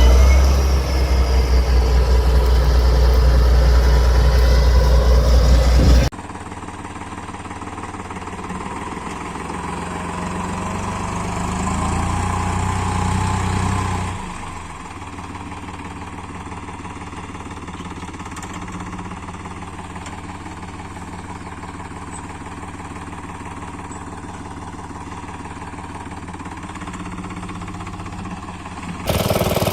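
Small tractor engines running while plowing. The first engine is loud and low; about six seconds in it cuts abruptly to a quieter engine that rises and falls in pitch briefly, then runs steadily.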